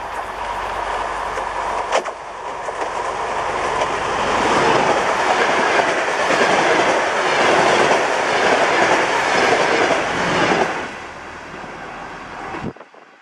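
DR1B diesel multiple-unit train, two sets coupled, approaching and running past close by: engine and running noise growing, loudest as the cars go by, dropping away about eleven seconds in, then cutting off abruptly near the end.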